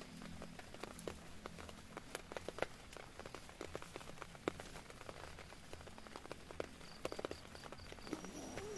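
Rain on a tent: irregular sharp drops tapping on the fabric over a steady faint hiss. Near the end a short sound comes in whose pitch wavers up and down.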